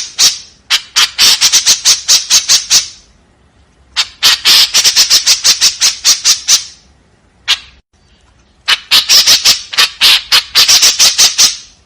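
White-breasted woodswallow giving harsh, rapid chattering calls, about eight notes a second, in bouts of two to three seconds with short pauses between, and a single lone call in one of the pauses.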